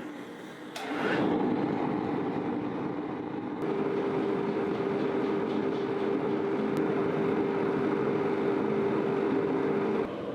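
A workshop machine running steadily, starting about a second in. A steady hum joins a few seconds later, and both cut off just before the end.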